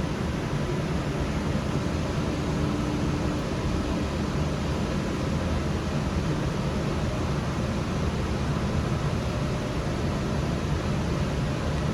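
Sound Transit Series 1 light rail train running, a steady low rumble with hiss and no change throughout.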